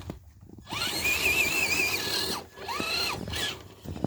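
Electric motor and geared drivetrain of a scale RC crawler truck whining under throttle in two bursts, the pitch rising as it spins up and then holding with a slight wobble before dropping away.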